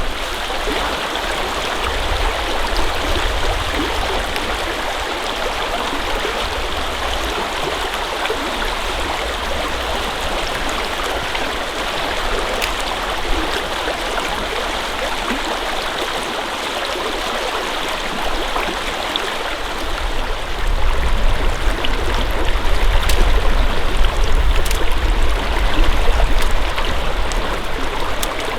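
Steady rushing of a flowing creek. A low, uneven rumble grows louder in the last third.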